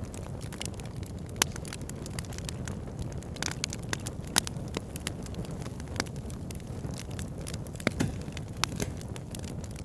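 Wood fire burning in a fireplace: a steady low rumble of flames with frequent sharp crackles and pops, a few of them louder snaps.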